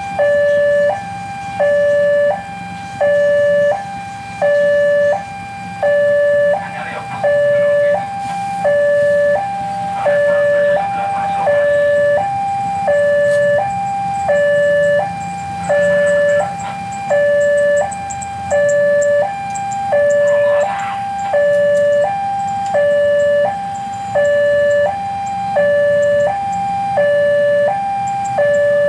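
Railway level-crossing warning alarm sounding: an electronic two-tone signal alternating between a higher and a lower pitch, each held about a second, repeating steadily, warning that a train is approaching. A low steady rumble runs underneath.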